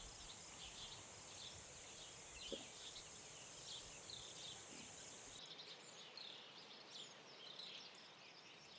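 Faint lakeside ambience with small birds chirping over and over in quick short notes. A steady high hiss runs under it and cuts off suddenly about five seconds in.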